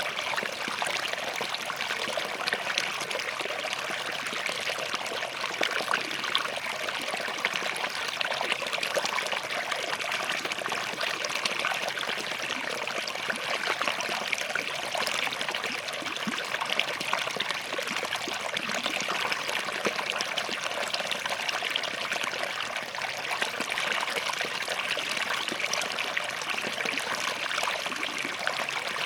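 Small stream flowing over and between rocks, a steady splashing and trickling without pause.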